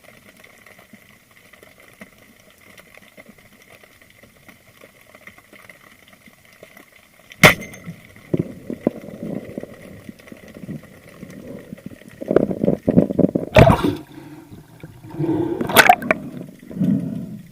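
Underwater water sounds with a faint steady whine, broken about seven seconds in by a single sharp snap. Choppy splashing and gurgling water follow, growing louder near the end.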